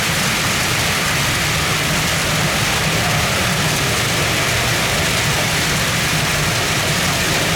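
Heavy downpour: a loud, steady hiss of rain falling, unchanging throughout.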